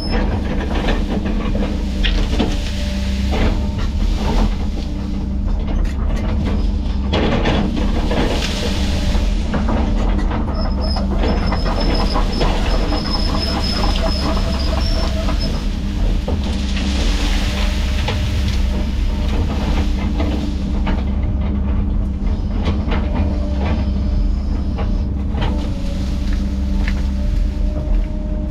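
Diesel engine of heavy land-clearing equipment running steadily under load, with louder spells of hissing and crackling about a third and two-thirds of the way in.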